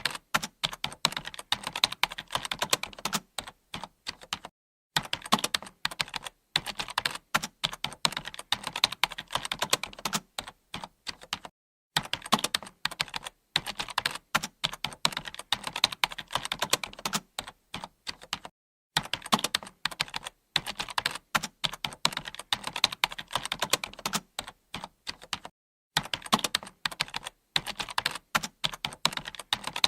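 Computer keyboard being typed on quickly and continuously, a dense run of key clicks broken by short pauses about every six or seven seconds.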